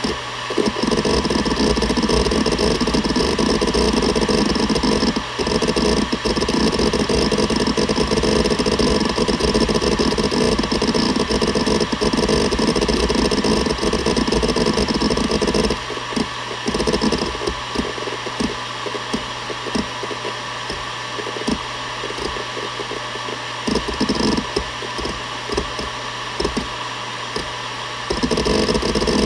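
Seagate Barracuda ES.2 ST31000340NS 7200 rpm hard drive spinning with a steady whine while its heads seek. The seeking is a dense, rapid clatter for about the first half, thins to scattered single seek clicks, and turns busy again near the end.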